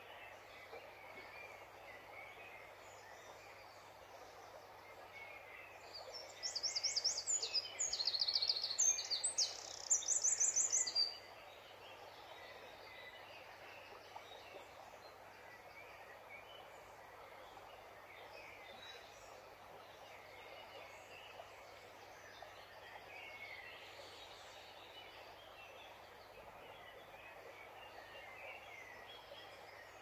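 Steady outdoor background hiss with faint scattered bird chirps. From about six to eleven seconds in, a songbird sings loudly close by in rapid, high-pitched phrases.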